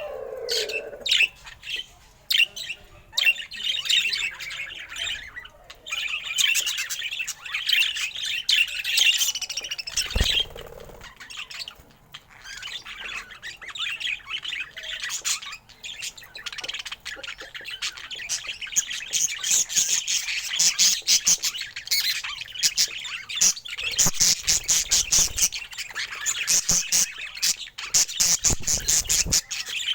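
Budgerigar chattering and warbling without pause: fast chirps, clicks and squawks.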